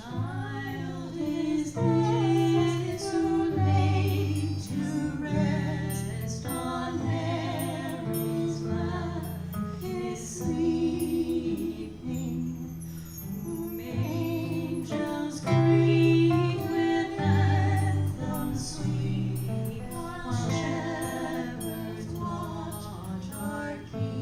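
Live band music: a small acoustic jazz-vocal group with guitar and percussion playing a tune, a melody line over changing low notes.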